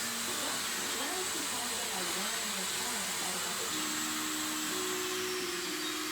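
Small toy helicopter drone's motors and rotors whirring steadily, a high, hissing whir, with faint voices underneath.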